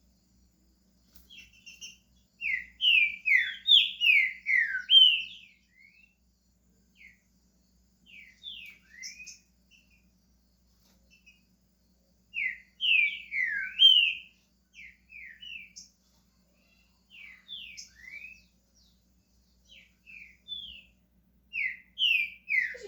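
Green-winged saltator (trinca-ferro) singing: three loud phrases of quick, downward-slurred whistled notes, with softer scattered notes between them.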